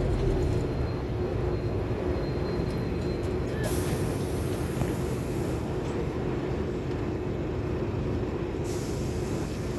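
Scania K280UB city bus under way, heard from inside the cabin: steady engine and road noise with a constant drone. A higher hiss comes in for about two seconds in the middle and again near the end.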